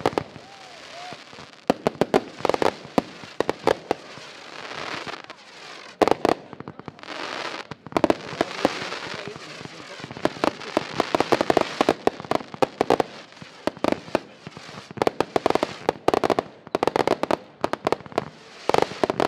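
Fireworks display: dense clusters of sharp bangs in quick succession with crackling, separated by short lulls.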